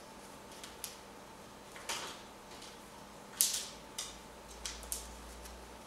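Scattered light clicks and rustles from an African grey parrot handling and knocking small toys in his toy box, the sharpest about three and a half seconds in.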